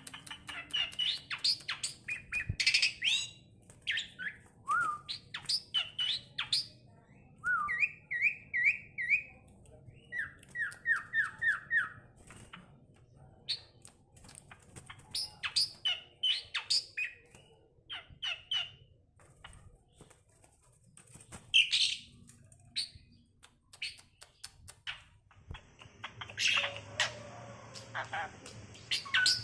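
Asian pied starling singing a varied, chattering song of whistles, sharp calls and harsh squawks, with two runs of quick repeated notes about a third of the way in.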